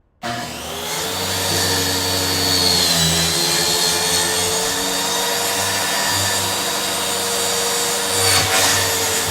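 Kreg track saw starting suddenly and running, its circular blade cutting through plywood. Steady motor whine that dips slightly in pitch about three seconds in.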